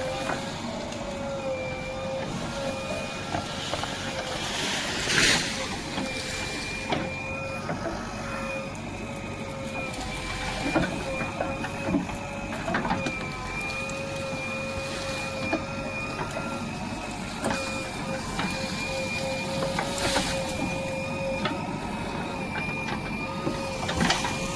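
Diesel earthmoving machinery running steadily with a constant whine, and a few short metallic knocks, the loudest about five seconds in and near the end.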